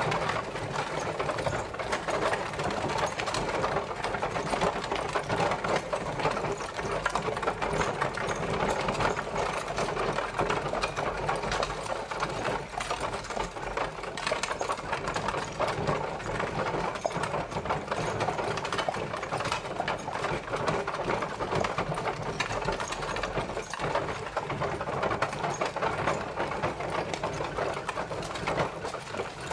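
Horse-drawn carriage rolling along: a steady, dense rattle of wheels and wooden body, thick with small clicks and knocks.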